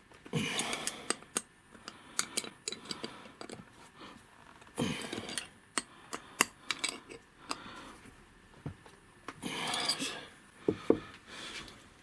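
Metal tools and parts being handled during hands-on repair work: scattered sharp clinks and clicks, with three longer scraping, rubbing stretches.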